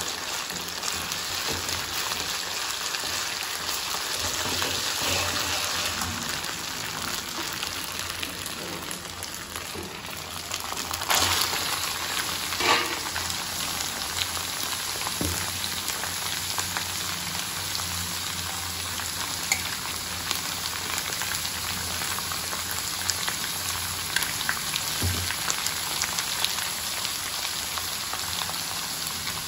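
Onions, green chillies and curry leaves sizzling in hot oil in an iron kadai, with a steel spoon stirring and knocking against the pan. About a third of the way through, raw chicken pieces go into the oil with a louder burst of sizzling, which settles back into a steady sizzle.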